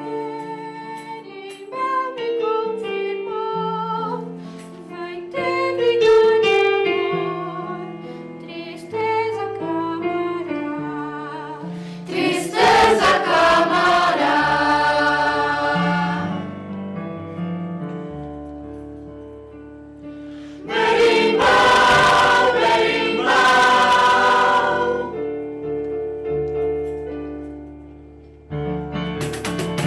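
Live music: voices singing over instrumental accompaniment, with quick runs of notes at first and two louder full passages in the middle.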